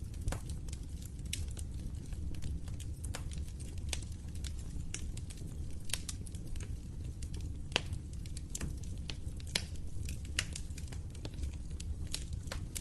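Wood fire crackling: irregular sharp pops and snaps, a few louder than the rest, over a steady low rumble of burning flames.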